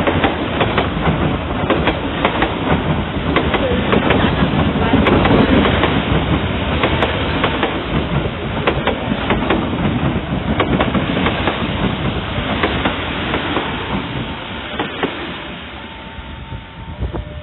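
Passenger train cars passing at speed, the wheels clattering over the rail joints with many sharp clicks, the clatter fading over the last few seconds as the train moves off.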